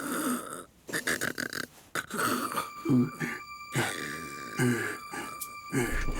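A cartoon character's wordless vocal noises: short grunts and mumbles. A steady high tone comes in about halfway through.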